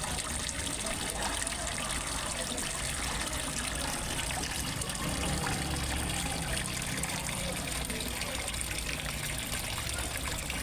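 Water trickling and splashing steadily into a fish pond, with a low rumble that swells for a few seconds midway.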